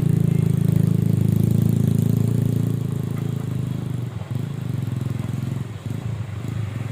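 Diesel truck engine running under load as the truck is backed up. It is loud at first, then eases off about halfway through.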